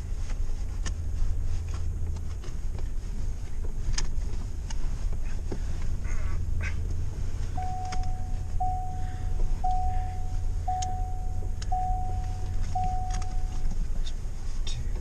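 Vehicle driving over a rough trail: a steady low rumble with scattered knocks and rattles. In the middle a dashboard warning chime dings six times, about once a second, each ding falling slightly and fading.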